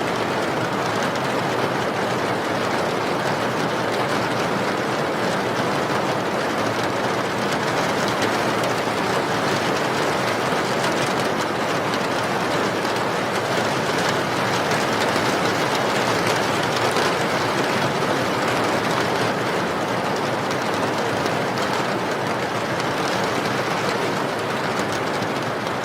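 Steady rain sound for sleep: a continuous, even hiss of falling rain with no breaks or changes.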